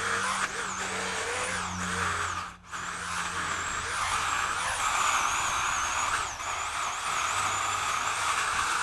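Two-stroke chainsaw engine running at high revs, its pitch wavering up and down, with a brief drop about two and a half seconds in; it stops suddenly near the end.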